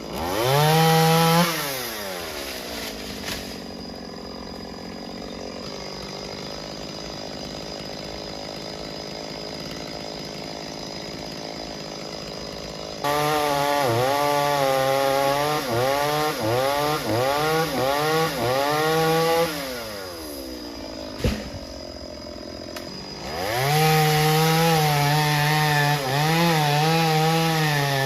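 Two-stroke chainsaw revving briefly and dropping back to idle, then running at full throttle with its pitch dipping again and again as the chain bogs in the wood, as in cutting a tree trunk. It falls back to idle, a single sharp knock sounds, and it revs up and cuts again near the end.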